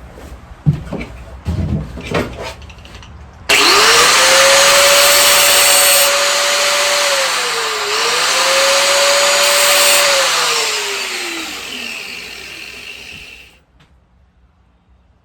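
A motor-driven power tool spins up suddenly, runs steadily with a single brief dip in speed, then winds down and cuts off. Before it starts there are a few clicks and knocks of parts being handled.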